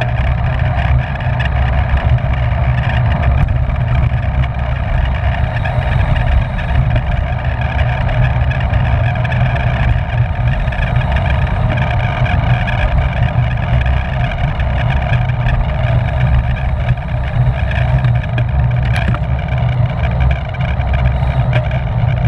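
Wind rushing over the microphone of a camera riding on a racing bicycle at speed: a loud, steady rumble that does not change.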